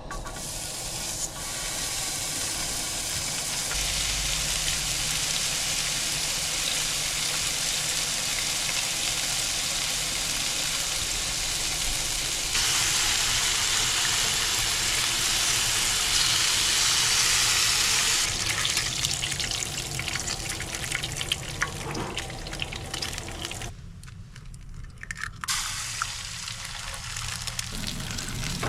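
Food sizzling in a frying pan: a steady hiss that grows louder about halfway through, then turns crackly and dips briefly near the end.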